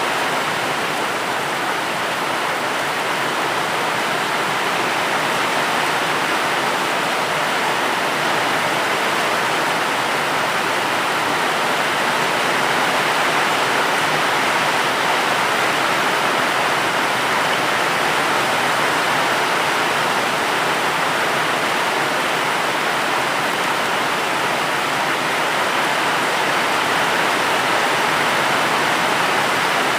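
Steady, dense rainfall: an even hiss of rain with no distinct drops, thunder or breaks.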